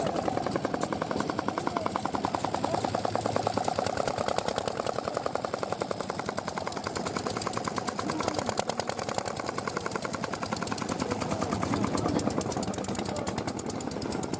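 Old stationary engine running with a rapid, even exhaust beat that holds steady throughout.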